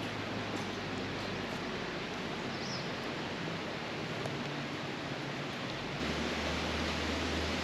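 Steady rain falling, an even hiss with no pattern. About six seconds in it changes abruptly to a slightly louder take with a low hum underneath.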